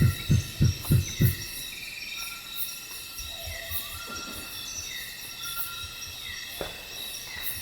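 Explosive, thumping grunts from an unidentified rainforest animal, about three a second, ending about a second in. A steady night chorus of insects continues, with steady high buzzing tones and pulsing high chirps, and a fainter run of grunts about four seconds in.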